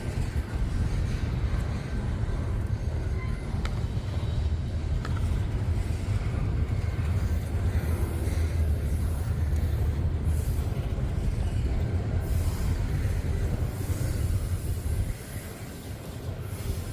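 Freight train rolling past: a steady low rumble of the locomotives and rail cars that eases briefly near the end.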